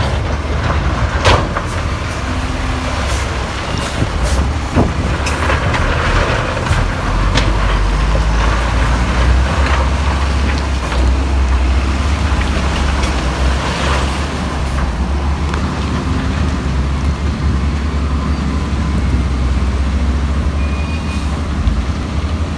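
Heavy diesel earthmoving machinery running steadily with a deep, low engine drone. A couple of sharp clanks come in the first five seconds.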